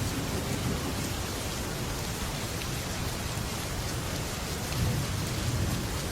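Heavy rain pouring steadily on a metal roof, with thunder rumbling low underneath and swelling again about five seconds in.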